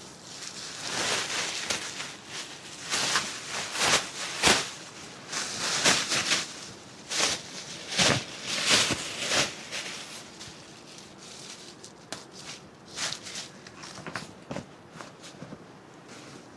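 Footsteps crunching and rustling in an uneven series of steps. They are loudest over the first ten seconds, then give way to lighter scuffs and clicks.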